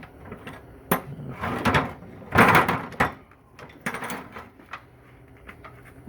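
Knocks, clanks and scraping of Corvair Powerglide transmission parts being pulled and shifted: a sharp knock about a second in, scraping, the loudest clatter around the middle, then a few lighter knocks.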